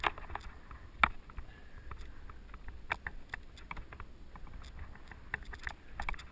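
Mountain bike on the move, rattling: scattered sharp clicks and knocks from the bike over a steady low rumble, with one loud knock about a second in.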